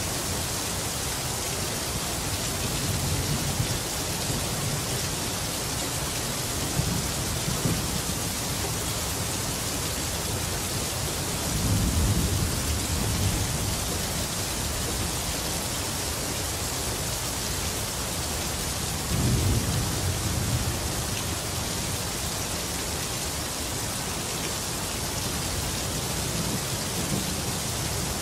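Rain falling steadily, with low rumbles of thunder several times over it; the two loudest rolls come about twelve and nineteen seconds in.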